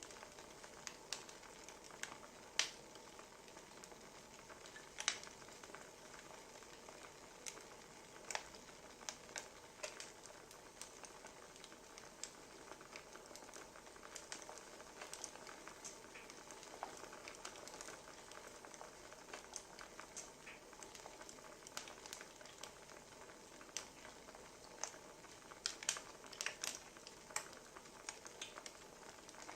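Wood fire crackling: a soft steady hiss with scattered sharp pops and snaps, which come thicker near the end.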